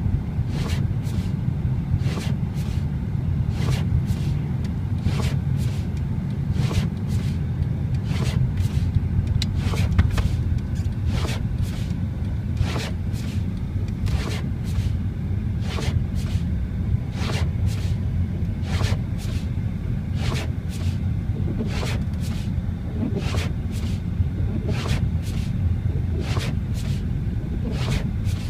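A car on the road: a steady low rumble of engine and road noise, crossed by short sharp ticks or scrapes that repeat irregularly about once or twice a second.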